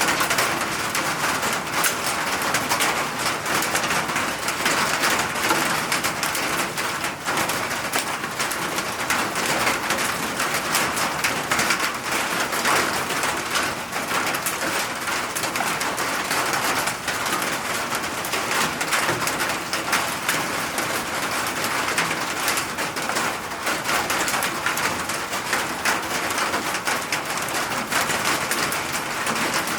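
Steady rain falling, a dense even hiss thick with the patter of individual drops.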